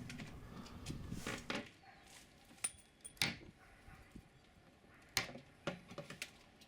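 A few faint, scattered knocks and clicks from objects being handled, spread out with quiet between them.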